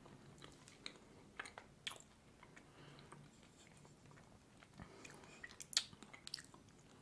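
Soft, quiet chewing of a passion-fruit mousse cake, with a few faint clicks of a metal fork against a plate, the sharpest about six seconds in.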